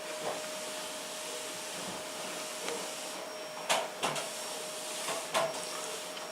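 Steady hiss with a faint steady hum, broken by a few short, sharp clicks or taps in the second half.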